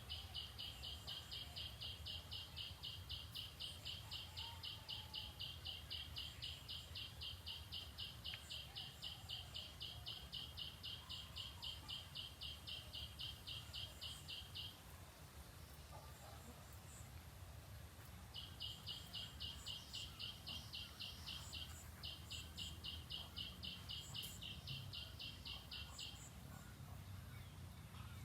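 An animal's rapid, evenly pulsed high chirping, about five or six chirps a second, which stops about halfway through and starts again a few seconds later, over a steady low rumble.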